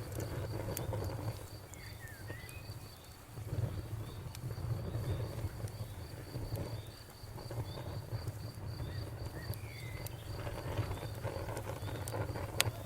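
Campfire burning with a low rumble and scattered crackles, one sharp pop near the end. Over it, crickets chirp in a steady, rapid pulse, and a bird chirps a few times.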